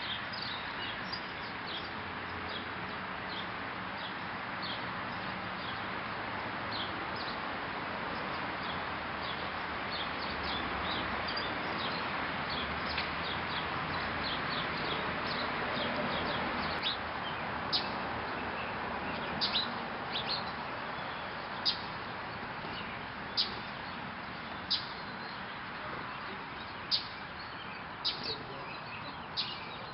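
Small birds chirping, a stream of short high chirps that come thicker and louder in the second half, over a steady background hiss.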